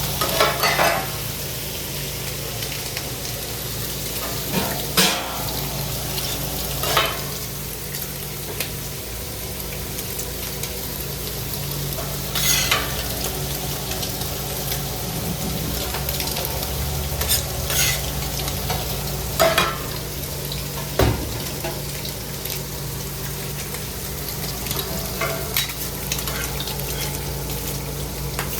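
Food frying with a steady sizzle, a metal utensil clacking or scraping against the cooking surface every few seconds, over a steady low hum.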